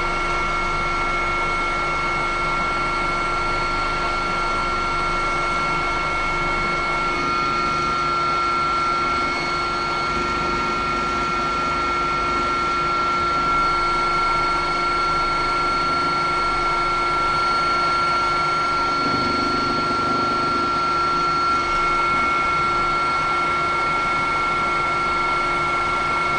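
Helicopter turbine engine running steadily: a constant high whine over a rushing noise.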